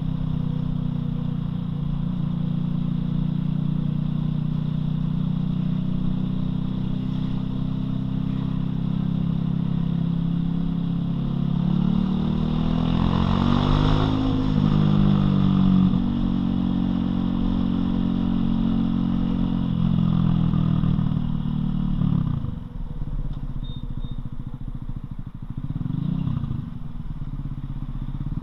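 Loncin LX250-12C motorcycle engine running under way, heard from on the bike. It grows loudest in the middle, drops in pitch and level about three quarters of the way through as the bike slows, then picks up again near the end.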